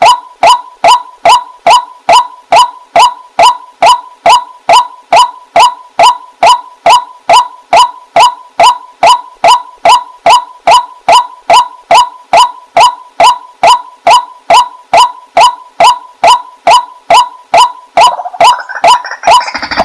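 Waterhen calling a long, even series of short, clipped notes, about two and a half a second, each dipping slightly in pitch; the series stops near the end.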